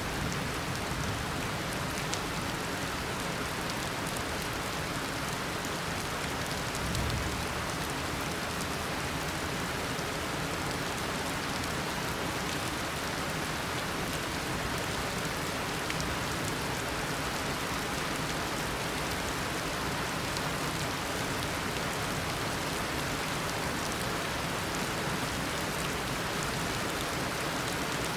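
Tropical downpour: heavy rain falling steadily and evenly on foliage and surfaces.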